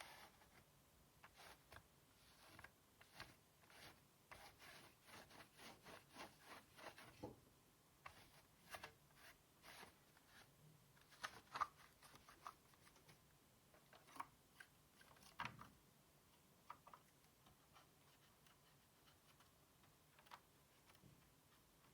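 Faint handling sounds of hand work on a PS4 Slim power supply: a run of quick scratchy strokes, about two or three a second, for the first several seconds, then scattered light clicks and taps.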